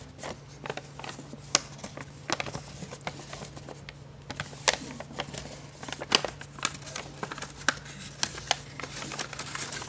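Paper being creased and folded by hand into an origami crane: irregular sharp crinkles and crackles as the sheet is pressed and bent, over a steady low hum.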